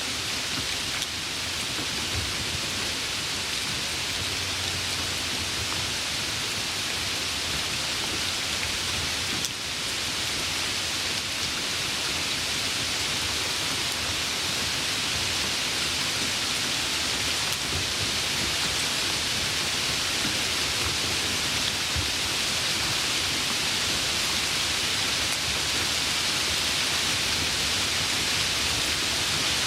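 Steady rain falling, a dense even hiss of many drops. A brief dip in the sound about nine and a half seconds in.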